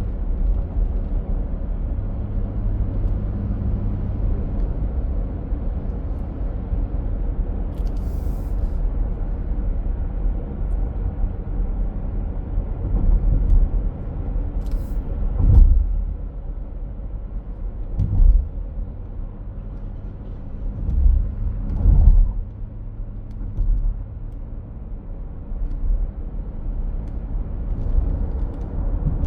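Heavy truck engine running with a steady low rumble. Two short air hisses come early on and in the middle, and a few low thumps follow between them and the last third.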